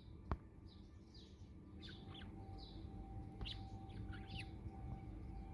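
Budgie chirping in short, quick chirps and chirrups, with a sharp click about a third of a second in.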